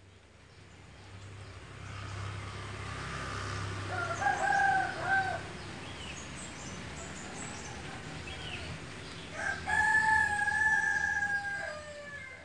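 Rooster crowing twice over a steady background hiss: a short crow about four seconds in, then a longer held crow near the end that drops in pitch as it finishes.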